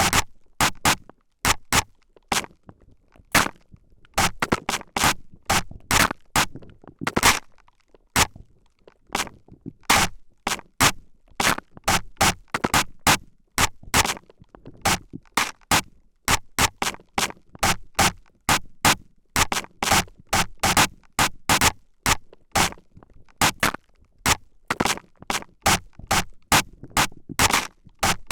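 Spray bottle squirted again and again right at the microphone: short, sharp hissing spritzes, about two or three a second at an uneven pace.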